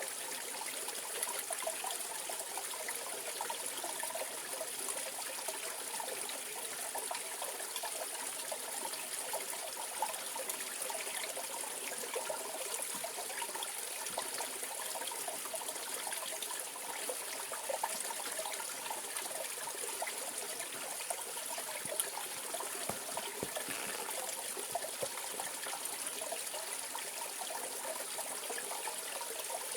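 Mountain valley stream flowing steadily, an even rush of water with small splashes here and there.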